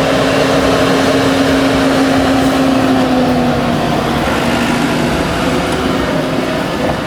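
Fendt Farmer 309 C tractor running hard with a steady whine. The whine drops slightly in pitch about three and a half seconds in.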